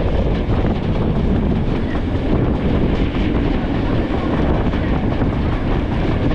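Passenger train running, heard from an open carriage window: a steady noise of wheels on the rails with wind on the microphone.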